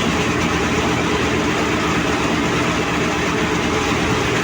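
Kobelco SK130 excavator's diesel engine running at a steady pitch, a constant low hum with a noisy wash over it.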